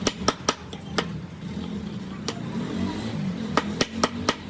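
About nine sharp knocks or taps at irregular intervals over a steady low background hum: a quick run of three at the start, one about a second in, and four close together near the end.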